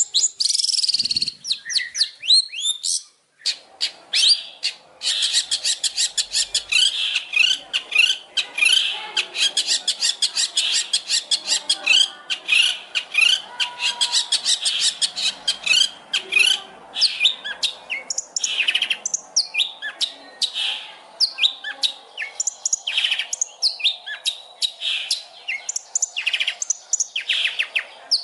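A songbird singing a fast, varied song of rapid chirps and stuttering trills, high in pitch. There is a brief break about three seconds in, after which a faint steady background hiss sits under the song.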